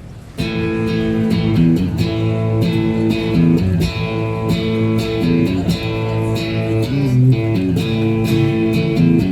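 Guitar intro of a country song: chords strummed in a steady rhythm, starting about half a second in.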